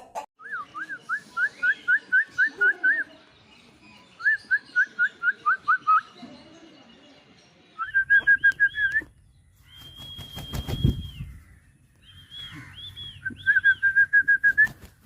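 A bird calling in runs of rapid whistled notes, about four a second, with pauses between the runs and a held higher whistle near the middle. A low rumble comes in around the middle.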